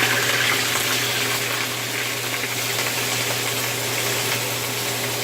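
Chicken pieces sizzling in hot ghee in a pan, a steady crackling hiss over a constant low hum.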